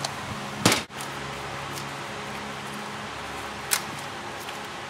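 Ball-peen hammer striking the truck's sheet-metal body panel, sinking the ground-out rust area below the surrounding contour: one loud sharp knock a little under a second in and a fainter one near the end, over a steady low hum.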